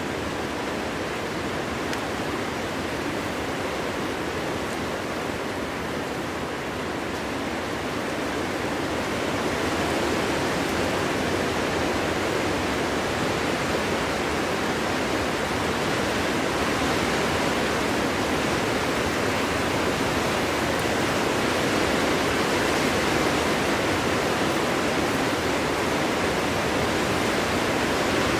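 Strong wind blowing steadily through a forest, a dense even rush that swells a little louder about a third of the way in.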